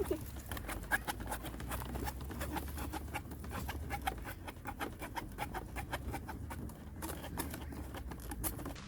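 Firewood crackling as a newly lit campfire catches: irregular sharp snaps, several a second, over a low steady rumble.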